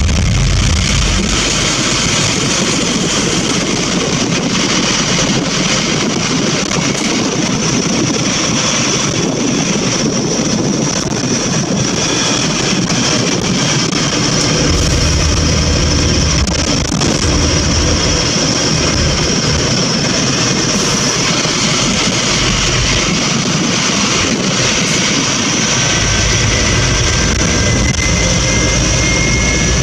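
Scania N230UB single-deck bus on the move: steady engine and road noise with a high whine, the engine's low rumble swelling about halfway through and again near the end. A rising whine over the last few seconds as the bus picks up speed.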